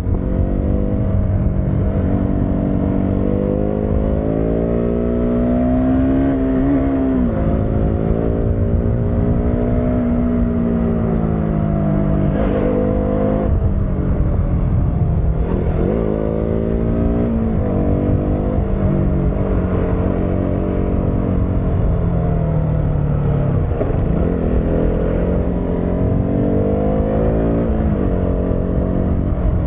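Motorcycle engine under way, its pitch climbing steadily and then dropping sharply several times as the throttle is opened and closed, over constant rumble and wind noise from the ride.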